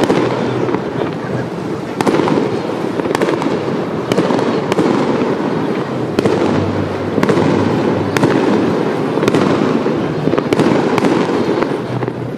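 Fireworks display: shells bursting overhead in a string of sharp bangs, roughly one a second, over a continuous dense rumble and crackle.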